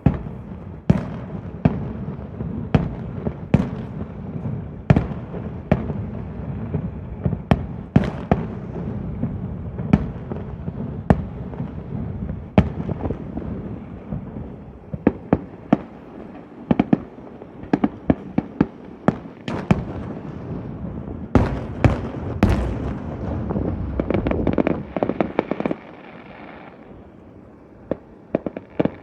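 Fireworks display: a steady run of sharp bangs over a continuous low rumble, thickening into rapid clusters of reports in the middle. The rumble drops away about three quarters of the way through, then a fresh crackle of bangs starts near the end.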